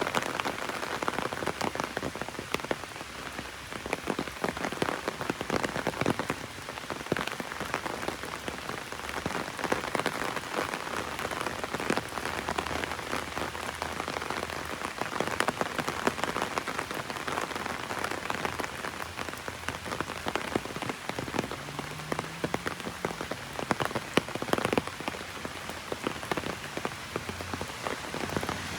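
Heavy rain falling on an open umbrella overhead: a dense, steady patter of many separate drop hits on the canopy.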